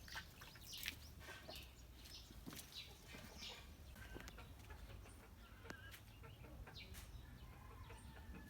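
Faint scattered drips and small splashes of water from freshly rinsed tyres, with birds calling and clucking faintly in the background.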